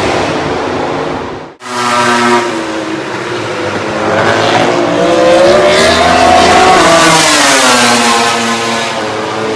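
MotoGP racing motorcycle engine at full song, its pitch climbing for a couple of seconds and then dropping away. The sound cuts out abruptly about a second and a half in.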